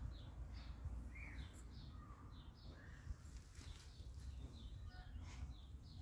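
Small birds singing and calling, a steady series of short high notes repeated about two or three times a second, over a low rumble of wind on the microphone.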